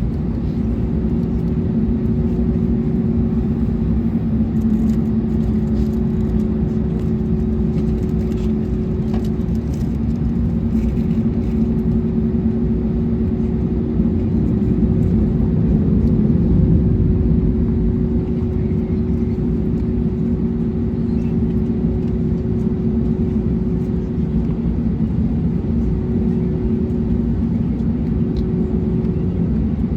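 Steady cabin rumble of an Airbus A321neo on the ground after landing, with two steady low hums from its idling engines and air systems. It swells a little about halfway through.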